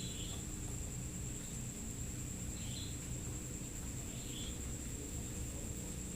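Night insects calling: a steady high-pitched trill with a short chirp about every two seconds, over a low steady background rumble.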